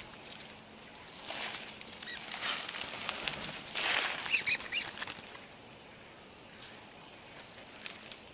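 Gusts of wind rushing through forest leaves in three or four swells, with a quick run of short, high bird chirps about four seconds in, over a steady high insect drone.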